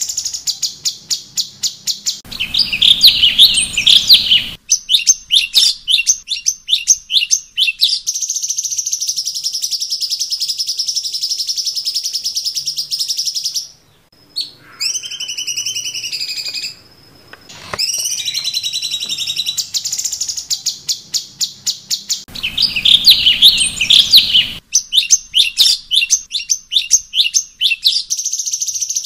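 Cucak cungkok songbird singing a loud, varied song: quick runs of sharp repeated chips, a long buzzing trill, and sliding whistles. The same phrase sequence comes round again about two-thirds of the way through, as in a looped training recording.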